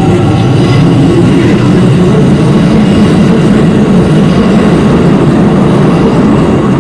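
Keikyu train passing over a level crossing close by, a loud, steady rumble of wheels and motors. The crossing's warning bell rings faintly under it, coming through more clearly as the train noise drops at the end.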